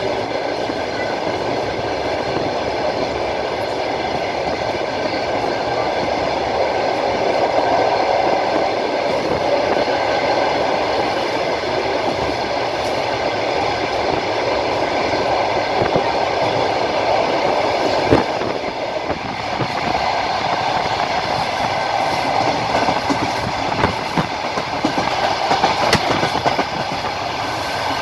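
Passenger train running along the line, heard from a carriage window: a steady rumble of wheels on rail with some whining tones, and a sharp knock about two-thirds of the way through as the wheels clatter over the track. A few more knocks and a faint high whine come near the end.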